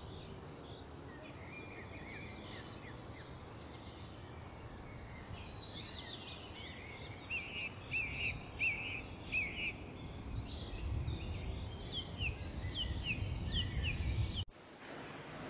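Birds chirping in short, repeated calls over steady outdoor background noise. A low rumble builds in the second half, and the sound cuts off abruptly near the end.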